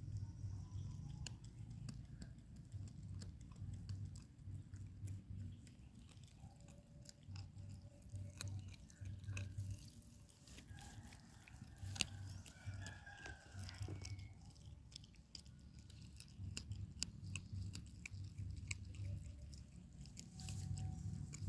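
A puppy chewing and eating, with many small irregular wet clicks and smacks over a low rumble.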